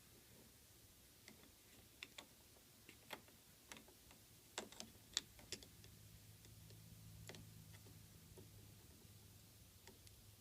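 Irregular light clicks and taps, a dozen or so, loudest and closest together around the middle, like small tools and parts being handled at a workbench. A faint low hum comes in about halfway and fades near the end.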